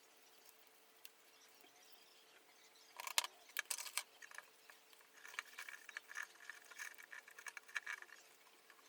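Light clicks and rattles of small metal parts or tools being handled: a short cluster about three seconds in, then a longer run of quick ticks from about five to eight seconds.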